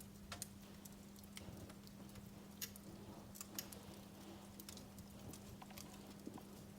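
Wood fire in a fireplace crackling softly, with irregular small pops and snaps, a few sharper ones in the middle, over a steady low hum.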